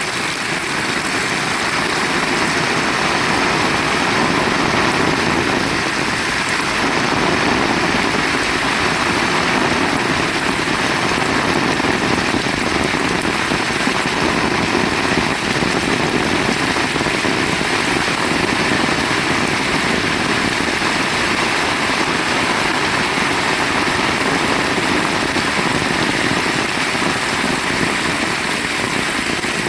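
Heavy rain pouring down steadily: a dense, even hiss that stays at the same level throughout.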